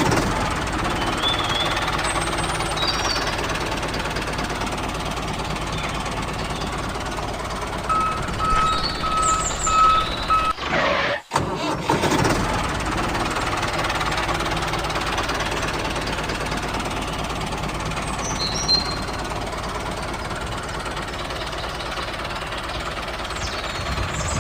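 A small engine running steadily with a knocking rattle. A pulsing beep sounds for a couple of seconds in the middle, and the engine noise breaks off briefly just after it before carrying on.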